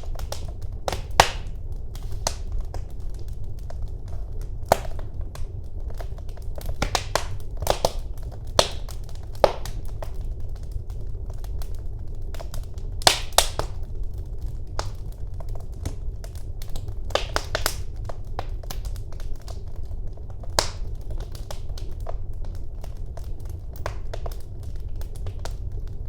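Wood fire burning in a fireplace, with irregular sharp crackles and pops over a steady low rumble of the flames; a few pops stand out louder, about a second in, around thirteen seconds in, and again a few seconds later.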